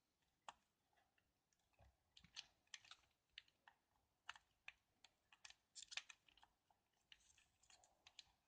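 Faint, scattered small clicks and taps of hands working at a keyboard's circuit board while a switch LED is desoldered and pulled out.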